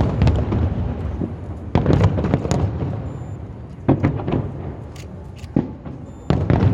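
Fireworks display: shells bursting with a sudden boom about two seconds in, another near four seconds and another near the end, each trailing off into rumbling crackle, with scattered sharp pops in between.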